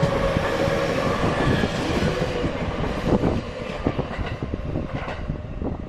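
Freight train of empty two-axle covered wagons rolling past, wheels clattering over rail joints with repeated knocks. A steady tone rides over the clatter and dies away about halfway through, and the train grows quieter near the end as it draws away.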